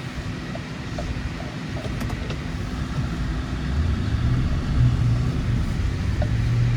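A vehicle engine working under load, getting steadily louder, with a low droning tone coming in about halfway through as it is driven through deep snow.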